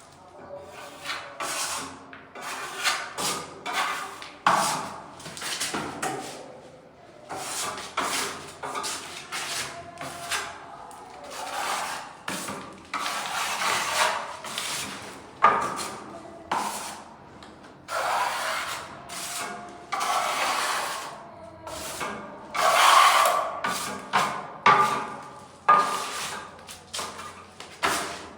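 Irregular rubbing and scraping strokes of a hand tool worked against a surface, typical of scraping or sanding during paint repair work.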